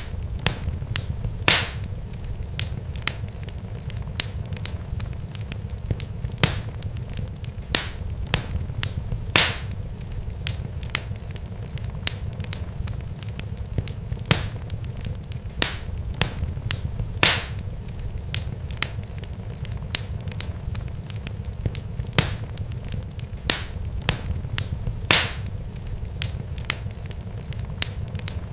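Irregular sharp pops and crackles, a few of them louder every couple of seconds, over a steady low rumble.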